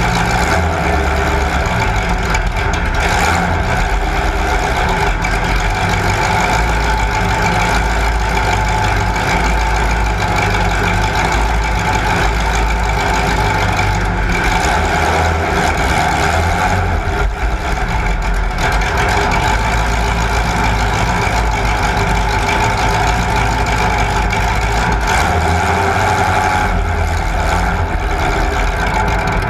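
Loud motor-vehicle engines running continuously, with a heavy low rumble and no pauses.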